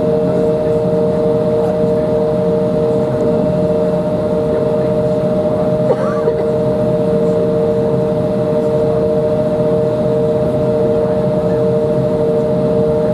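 Cabin noise inside an Embraer 175 airliner, with its CF34 jet engines running steadily. Two steady whining tones sit over a constant rumble and hiss, and a small click comes about halfway through.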